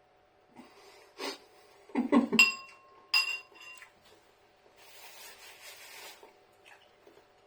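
Cutlery knocking and clinking against a dish. A few knocks are followed by two clear, ringing clinks about a second apart, which are the loudest sounds. Then comes a soft rushing noise lasting about a second and a half.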